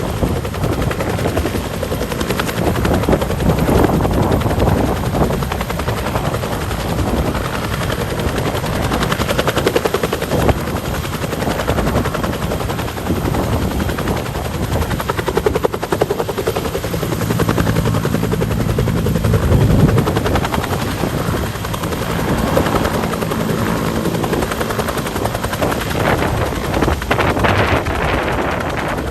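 Helicopter rotor blades chopping rapidly and steadily, with the turbine running, loud throughout.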